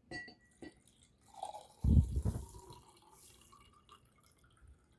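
Water being poured into a drinking glass: a splash about two seconds in, then a trickle that fades off.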